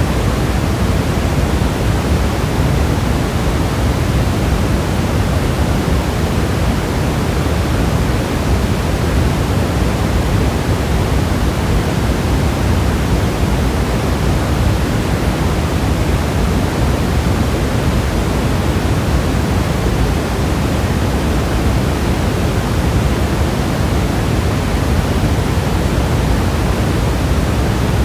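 Steady, even rushing noise of heavy rain, with no separate drops standing out.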